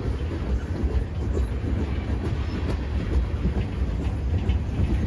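Freight train tank cars rolling past: a steady low rumble of steel wheels on rail, with scattered clicks and clanks from the wheels and couplers.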